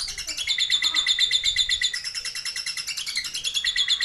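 Lovebird singing its long 'ngekek' chatter: a continuous stream of rapid, evenly repeated shrill notes.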